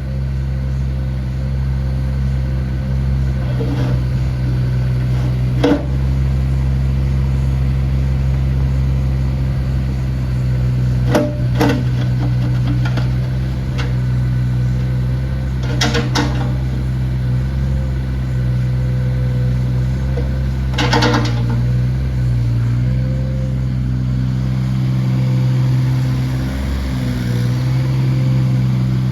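Volvo EC18E mini excavator's diesel engine running steadily, with a handful of sharp knocks and the engine note dipping slightly now and then as the machine works.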